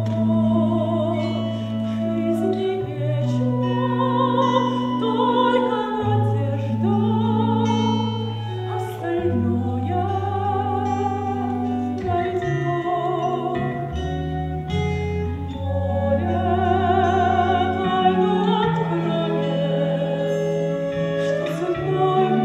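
A woman singing a musical-theatre song in an operatic style, her held notes wavering with vibrato, over orchestral accompaniment with sustained low notes.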